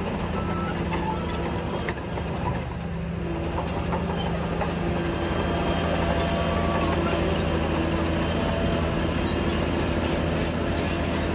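Shantui DH17C3 crawler bulldozer working: its diesel engine runs steadily under load while its steel tracks clank, and the sound grows a little louder about five seconds in.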